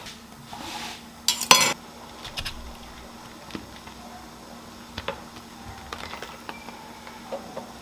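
Cutlery and dishes clinking and scraping: a louder scraping rattle about a second and a half in, then scattered light clicks, over a faint steady hum.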